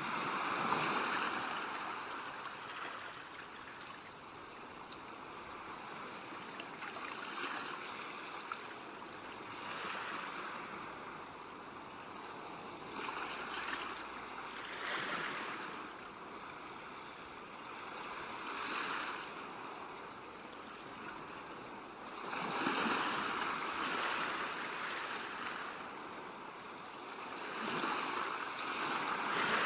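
Ocean waves washing ashore: a steady hiss of surf that swells and fades every few seconds as each wave breaks and runs up, loudest about a second in, around twenty-three seconds in and near the end.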